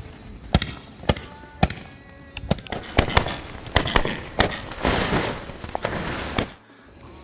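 Low-noise 'Florals 100 No Sound' sky shot cake firing: a string of sharp pops as the shots leave the tubes, then a dense crackling hiss for about two seconds that cuts off suddenly. The launches are audible but much softer than an ordinary sky shot's bangs.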